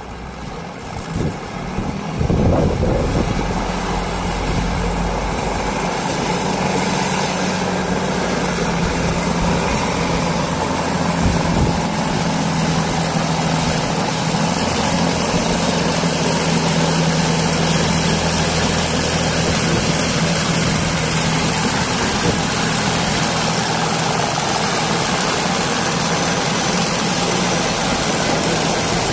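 Lavender harvesting machine running, a steady engine drone that grows louder about two seconds in and then holds even.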